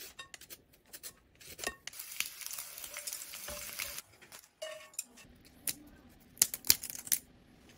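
Thin sweet potato slices sizzling in hot oil in a frying pan for about two seconds, with scattered sharp clicks and crackles before and after.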